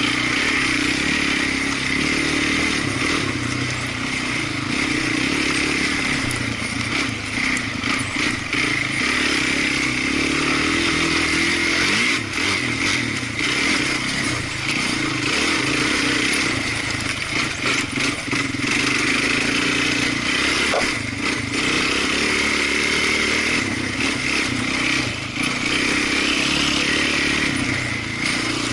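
Off-road vehicle engine running steadily, with many short knocks and rattles throughout.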